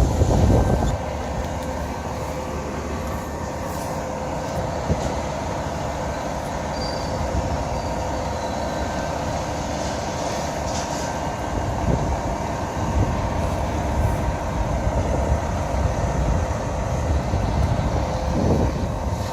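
Fire engine responding with its warning horn sounding: long held, steady tones over engine and street noise.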